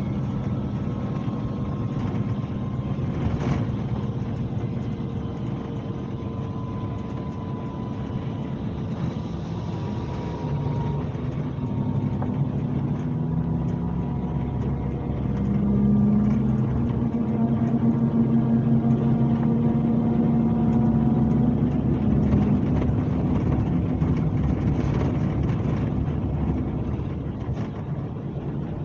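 Scania K370C coach's diesel engine running under way. About halfway through, the engine note steps up and gets louder as it pulls harder, then eases slightly near the end.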